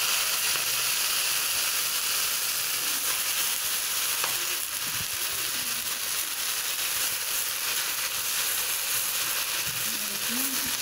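Fresh leafy greens sizzling in hot oil in a wok: a dense, steady frying hiss that holds evenly throughout.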